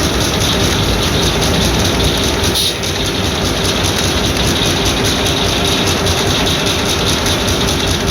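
Old circular sawmill at work: the 1948 Mariannelunds saw bench and its 1938 Beijer 35 hp hot-bulb engine running together in a loud, steady mechanical clatter with a hum underneath.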